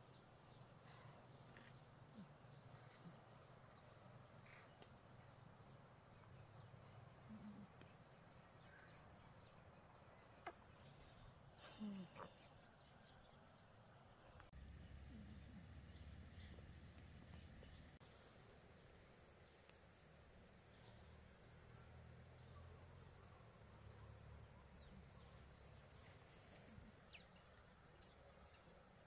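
Near silence: faint steady insect calls, crickets, with a few soft knocks about a third of the way through.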